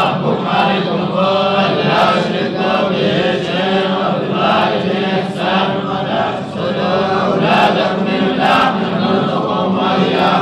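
Quran recitation chanted aloud by men's voices in unison, one continuous melodic line without pauses.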